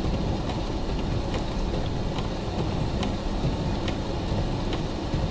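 Vehicle cabin while driving slowly on a snowy road: a steady low engine and tyre rumble with hiss. A faint click comes a little less than once a second.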